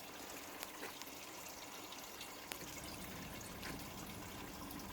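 Water trickling and dripping into the growing containers of a hydroponic flood and drain system, fed by a pump through a tube. It is faint and steady, with scattered drips.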